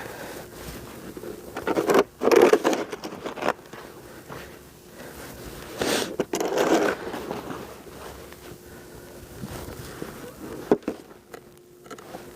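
Snow shovel scraping and pushing snow, two longer strokes, with a sharp knock near the end.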